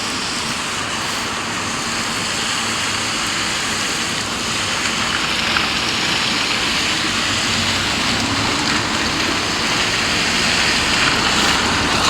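Heavy rain falling as a steady hiss, growing a little louder toward the end.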